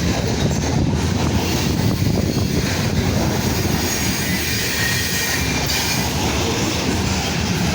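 Freight train cars, among them grain hoppers, rolling steadily past: a continuous rumble of steel wheels on the rails with a faint thin wheel squeal.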